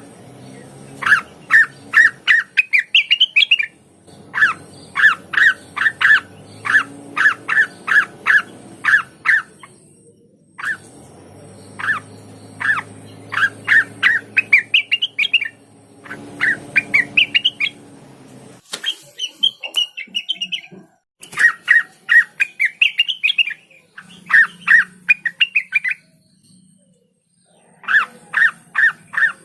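Cucak wilis (rengganis) leafbird singing: phrases of sharp, rapidly repeated notes, several ending in a run of higher rising notes, separated by short pauses.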